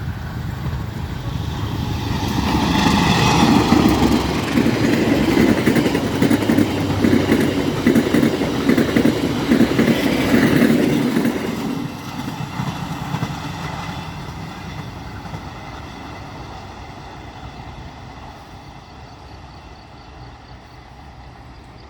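A diesel-hauled train passing by. The sound builds, is loudest from about three to eleven seconds in, then slowly fades as the train moves away.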